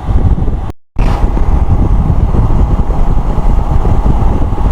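Motorcycle on the move at a steady speed: engine and road noise with no change in pace. The sound drops out completely for a moment about a second in.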